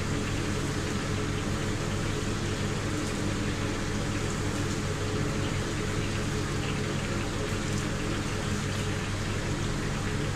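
Steady sizzling of pieces deep-frying in hot oil, over a constant low hum.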